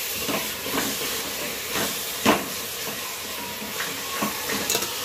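Onion-tomato masala sizzling in hot oil in a metal pot as it is roasted, stirred with a wooden spatula that scrapes and knocks against the pot several times, the loudest knock a little past halfway.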